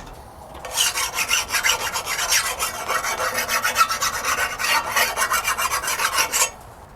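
A file scraped rapidly back and forth over a freshly quenched 80CrV2 steel blade, skating on the hardened steel: a file test showing the blade is fully hard. The scraping starts about a second in and stops shortly before the end.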